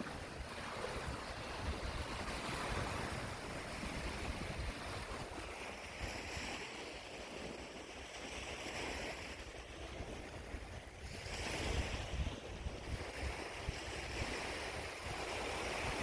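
Lake waves washing against the shore in swells that rise and fade every few seconds, with wind rumbling on the microphone.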